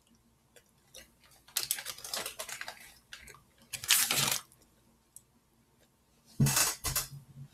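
A person chewing a gummy candy (Sour Patch Kids Heads) close to the microphone: irregular bouts of clicking and smacking mouth noises, with the loudest bursts about four seconds in and near the end.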